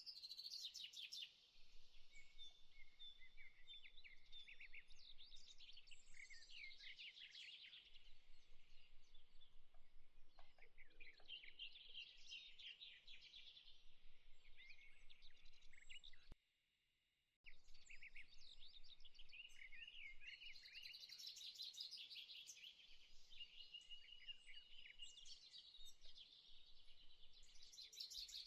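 Faint birdsong ambience: several small birds chirping and twittering in quick, high runs, with the track dropping out for about a second about two-thirds of the way through.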